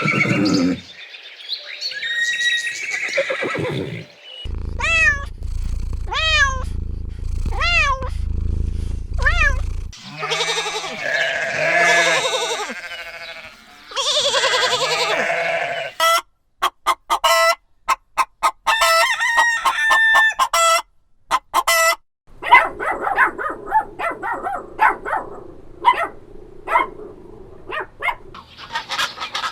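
Farm animals calling in a run of short clips cut one after another, with pitched calls repeated every second or so and wavering calls like goat bleats.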